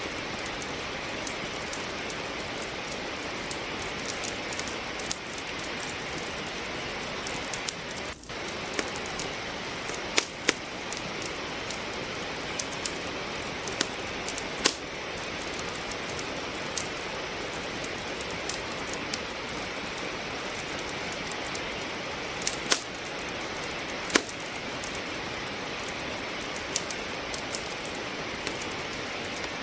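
Steady rain hiss with a wood fire crackling over it: irregular sharp pops, a few much louder than the rest. The rain hiss dips briefly about eight seconds in.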